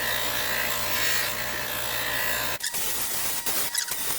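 Electric polishing wheel running with a chrome trim piece being buffed against it using black compound, a steady whir with a faint whine. About two and a half seconds in the whir cuts off abruptly, followed by scattered light clicks and taps of handling.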